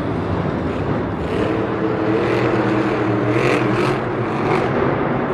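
Monster truck's supercharged engine running hard and revving up and down, echoing in an enclosed stadium.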